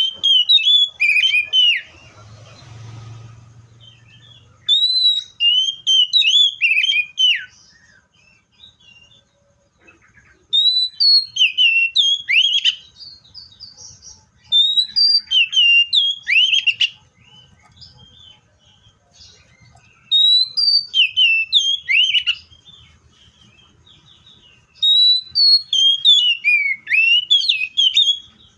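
Seychelles magpie-robin singing: phrases of loud, clear whistled notes that swoop up and down, each phrase two to three seconds long, repeated about six times with short pauses between.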